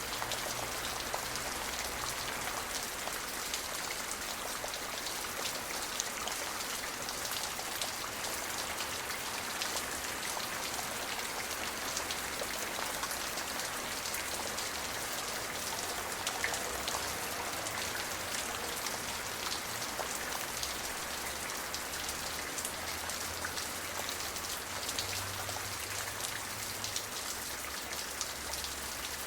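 Steady rain falling, a continuous hiss with a dense patter of individual drops striking.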